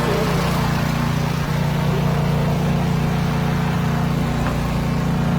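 Pressure washer's pump machine running steadily with a constant hum, just switched on and not yet delivering water to the spray.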